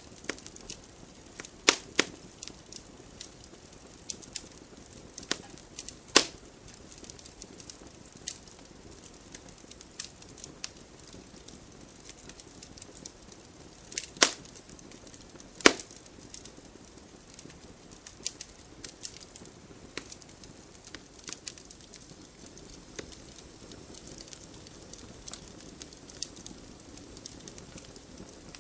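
Wood fire burning in a fireplace: a soft hiss with irregular crackles and pops, a few loud sharp snaps among many small ticks.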